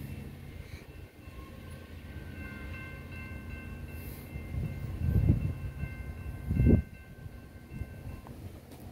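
Freight train's tank cars rolling away on the curve: a steady low rumble of wheels on rail with a thin high-pitched squeal over it. Two loud low rumbling surges come about five and six and a half seconds in.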